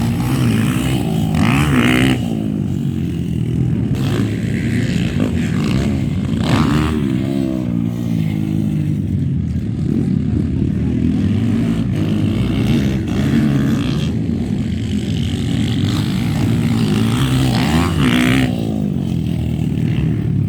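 Motocross dirt bike engines revving, their pitch rising and falling again and again as bikes race by, with louder sweeps about a second and a half in, near the middle and near the end.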